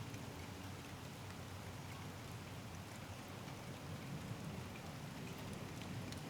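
Steady rain falling in a thunderstorm, a continuous even hiss with faint scattered drop ticks.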